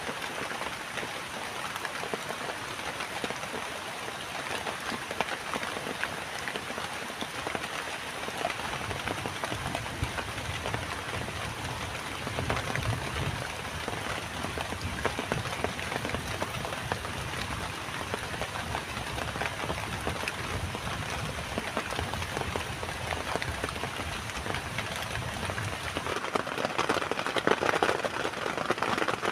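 Heavy rain falling, a dense steady patter of drops on a surface. A low rumble runs underneath through the middle, and the sound changes near the end.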